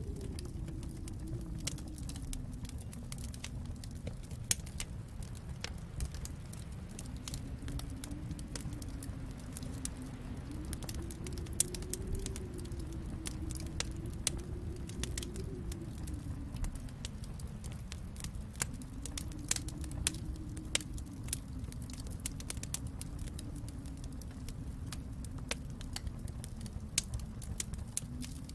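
Wood fire burning in a fireplace: scattered sharp crackles and pops over a steady low rumble that slowly swells and fades.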